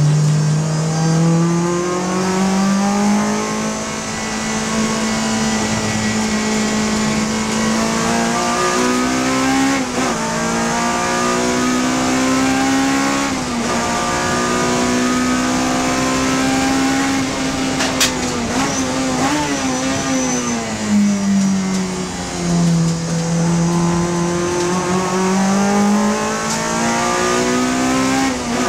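Honda Civic FD2 race car's four-cylinder engine at high revs under hard acceleration. The pitch climbs through the gears with short drops at the upshifts, falls away a little after two thirds of the way through as the car slows, then rises again.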